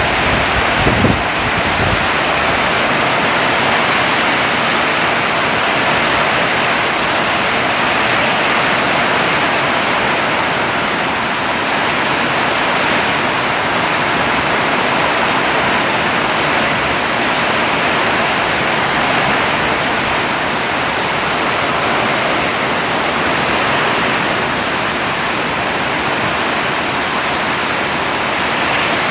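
Heavy rain pouring down in a steady, dense hiss, with a few low bumps of wind or microphone noise in the first couple of seconds.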